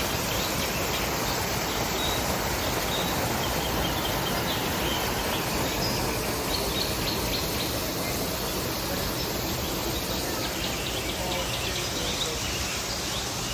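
Steady rushing of a rainforest creek and waterfall, with scattered short high chirps from birds and insects.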